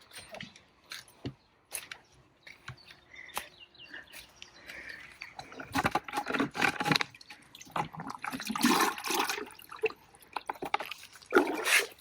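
Water poured or sprayed onto garden plants and soil in several gushes of a second or two each, with scattered small clicks and rustles between them.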